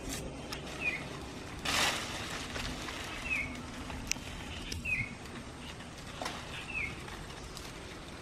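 A bird giving a short, falling chirp four times, about every one and a half to two seconds. A brief rustle comes about two seconds in, and a few sharp clicks are heard.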